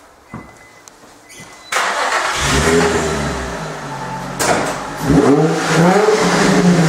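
Nissan Fairlady Z Z33's V6 engine, breathing through a Vertex TITAN aftermarket muffler, starts up a little under two seconds in and settles into a loud idle, then is revved, its pitch rising and falling.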